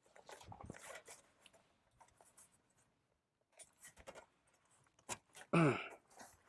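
Metal legs of a small folding camp table being taken apart by hand: scattered rubbing, scraping and light clicks of the tubes. Near the end comes one louder, short sound that falls in pitch.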